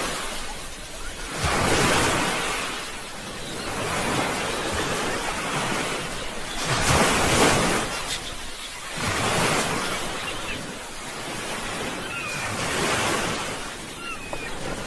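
Sea waves washing onto the shore, each surge swelling and falling away every two to three seconds. A few faint short chirps come near the end.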